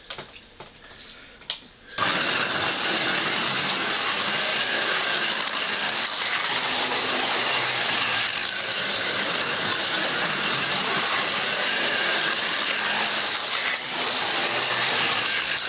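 Small electric motors of 1/43-scale Carrera Go slot cars whirring at speed round the plastic track. The whir starts suddenly about two seconds in and runs on steadily.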